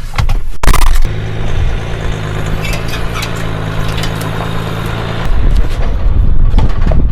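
Jeep Wrangler engine starting about a second in and idling with a steady hum, then running louder from about five seconds in as the Jeep gets under way.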